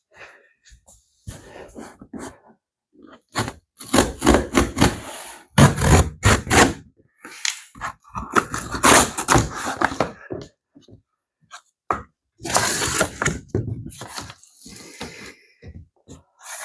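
Cardboard shipping box being cut and pulled open: irregular scraping, tearing and knocking of the cardboard and the packed plastic parts, busiest from about four to seven seconds in and again near the end.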